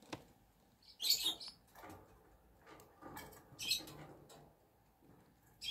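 Young chickens peeping: three short, high-pitched cheeps, about a second in, in the middle and at the very end, over faint softer calls.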